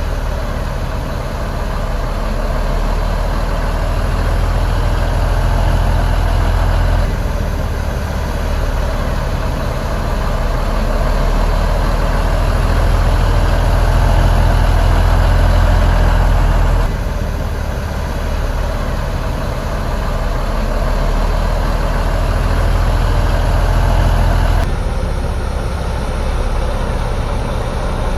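Komatsu bulldozer's diesel engine running with a steady, heavy low drone, its sound shifting abruptly a few times.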